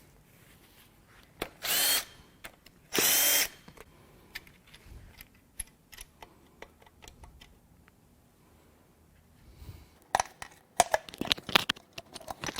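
Power tool running in two short bursts, about a second apart, spinning loose the connecting rod cap bolts on a BMW S52 inline-six. Near the end come sharp metallic clicks and clatter from the rod cap and tools being handled.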